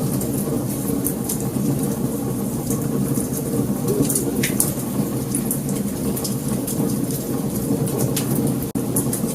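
Wood fire burning: many sharp crackles and pops over a steady low rumble of flames, with a momentary dropout near the end.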